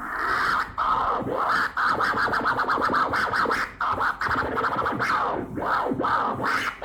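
Rapid stuttering, scratch-like sound with quick swooping pitch changes, like a record being scratched.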